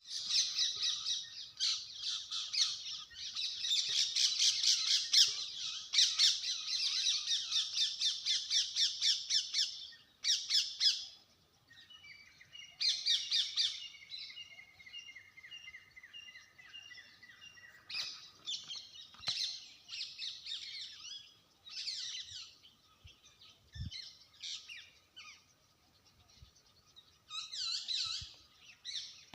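Bird calling: fast runs of high, rapidly repeated calls for about the first ten seconds, then shorter, sparser bursts of chirps with quieter gaps between.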